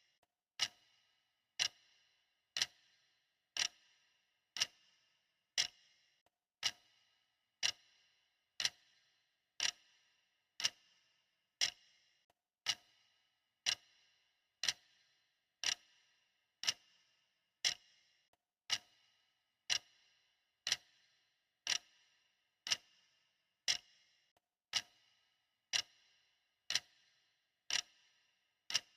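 Clock ticking steadily, about one tick a second, each tick a sharp click with a brief ring.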